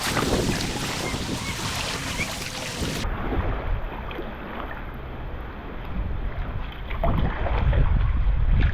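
Wind buffeting the microphone over water sloshing around a kayak on the sea. The sound turns duller about three seconds in, and the low wind rumble grows louder near the end.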